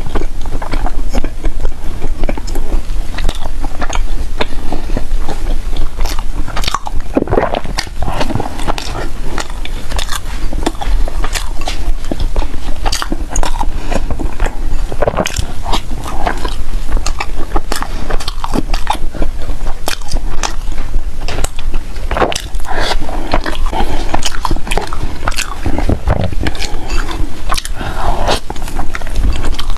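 A person biting and chewing food close to the microphone, a dense run of small irregular mouth clicks and crunches.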